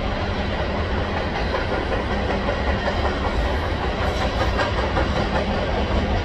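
Freight train of covered hopper cars rolling past, a steady rumble of steel wheels on rail, with a few faint clicks about four seconds in.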